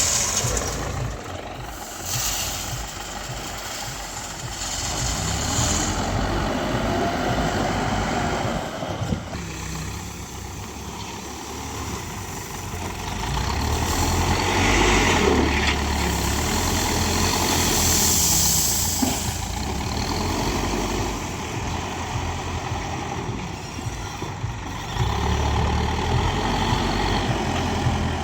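Diesel engines of a backhoe loader and a tractor running at work, the low engine sound rising and falling in level and louder for several seconds midway, with occasional short bursts of hiss.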